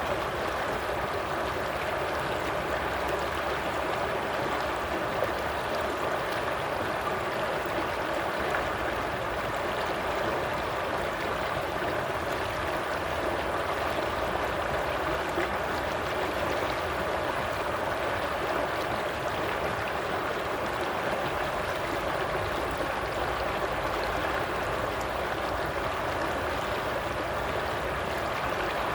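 Stream water flowing and babbling steadily, with no breaks or changes.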